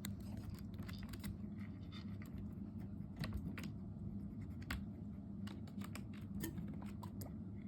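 Irregular sharp clicks and scratching from a skinny guinea pig moving about its enclosure, over a steady low hum; no squeals yet.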